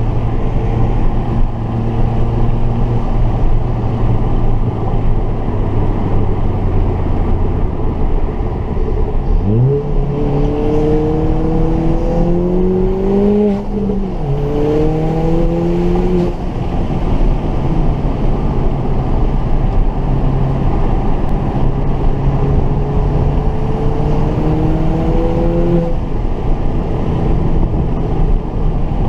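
Ford Fiesta ST's turbocharged four-cylinder engine, fitted with a Revo RT330 upgraded turbo, heard from inside the cabin over steady road noise. It runs at a steady, slowly falling cruise, then about a third of the way in the revs jump and climb under hard acceleration, drop once at a gear change and climb again. After that it settles back to a cruise, with one more short pull near the end.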